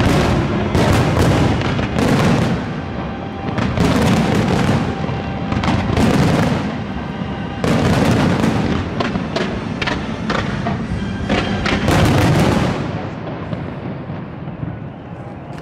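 Fireworks display: shell bursts going off in rapid clusters every second or two, with crackling trails, over music. The bursts thin out and die down over the last few seconds.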